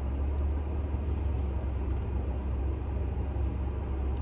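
Steady low rumble of a car engine running, heard from inside the vehicle.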